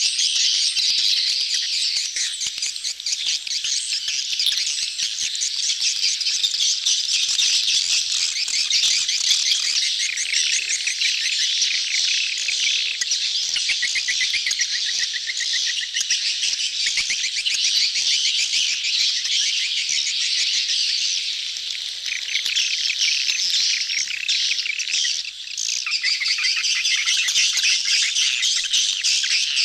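A dense chorus of many swiftlets twittering and chattering, a continuous high-pitched mass of rapid chirps. It is the crowded mating-call twitter used as a lure to draw swiftlets into a nesting house.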